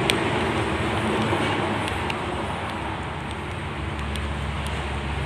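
Steady background noise, an even rush across the range, with a few faint ticks; a low hum comes in about four seconds in.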